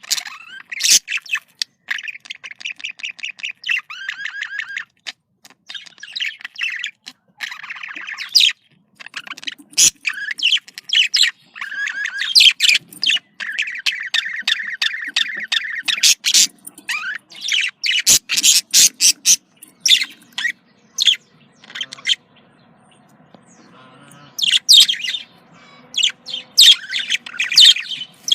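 Budgerigars chattering and warbling, with fast runs of clicking chatter and sharp, high chirps and squawks and a brief lull near the end. These are the birds' breeding-season calls, the kind played to get budgies in the mood to mate.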